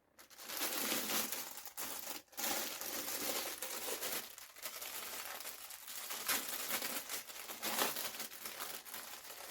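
Crinkly packaging being handled and unwrapped: a continuous crinkling and rustling that starts just after the beginning, with a brief break about two seconds in.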